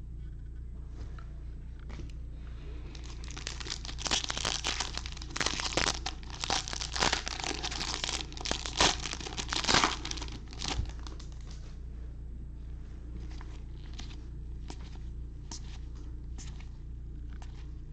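Wrapper of a Bowman baseball card pack crinkling and tearing open: several seconds of dense, noisy crackling, then fainter scattered ticks and rustles.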